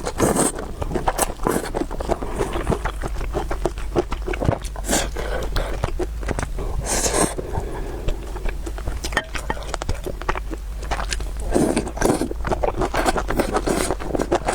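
Close-miked eating: a person chewing noodles and food, with a dense run of small mouth clicks and smacks and a low steady hum underneath.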